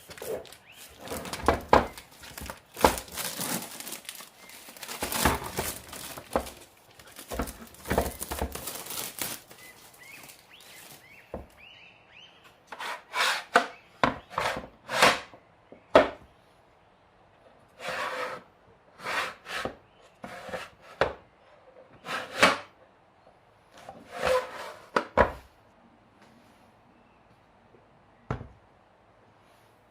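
Household handling sounds: irregular light knocks, clacks and rubbing, as of wooden things being set down and moved. The busiest stretch is the first ten seconds, then separate short groups of clicks, and a single knock near the end.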